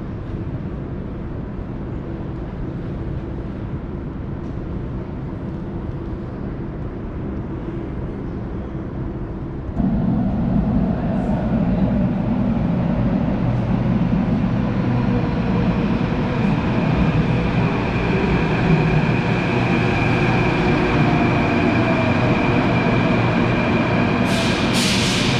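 Athens metro electric train running with a steady rumble; about ten seconds in it suddenly gets louder and a rising whine sets in as the train gathers speed. Two short hisses come near the end.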